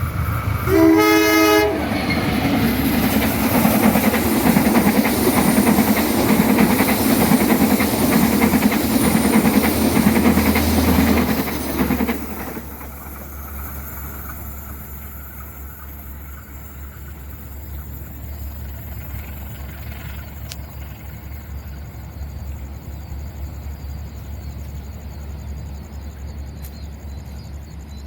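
Passenger train's locomotive horn sounding one short blast, then the train passing with a loud rumble and clatter of wheels on rails. The noise drops off abruptly about twelve seconds in, leaving a low steady hum.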